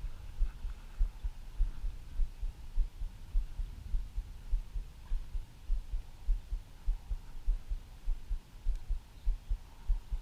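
Irregular low thumps and rumble on the microphone, about two or three a second, with faint hiss behind.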